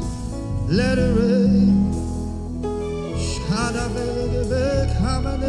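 Gospel worship song: a solo voice sings drawn-out phrases that bend and waver in pitch, over steady sustained keyboard chords and bass.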